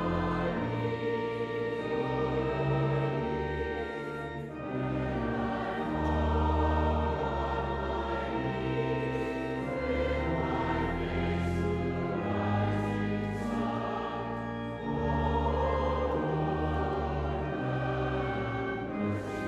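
Choir singing a slow sung response, accompanied by held chords with sustained low bass notes.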